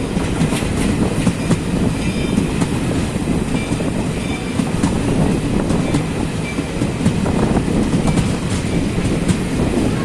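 Jan Shatabdi Express train running along the track: a steady rumble of wheels on rail with scattered clicks and clacks over the rail joints and a faint thin squeal now and then.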